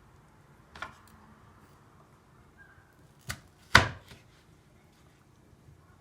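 Three sharp knocks of kitchen work, such as a knife or utensil striking a board or a pot. One comes about a second in, then two close together in the middle, the last the loudest with a brief ring.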